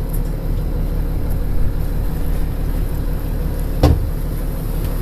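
Luhrs Alura 30 cruiser's engine running steadily under way, a low even hum, with one short knock about four seconds in.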